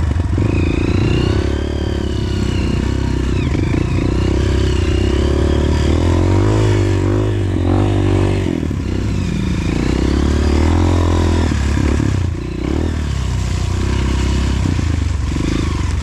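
Dirt bike engine running under changing throttle on a trail, its pitch rising and falling again and again, with a brief drop in level about three quarters of the way through.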